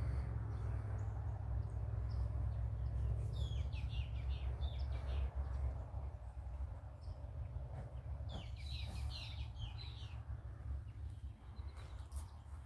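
A bird chirping in two quick runs of high notes, one about three seconds in and another about eight seconds in, over a steady low rumble.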